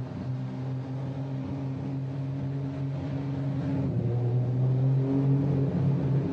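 BMW 328 roadster's two-litre straight-six engine running at a steady pitch as the car drives past, growing louder about four seconds in.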